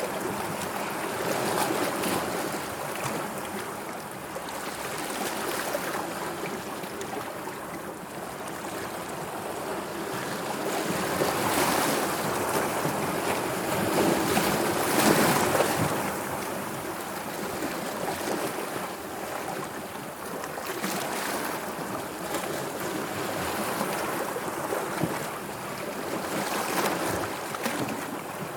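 Sea waves washing in a continuous hiss that swells and eases, loudest about halfway through.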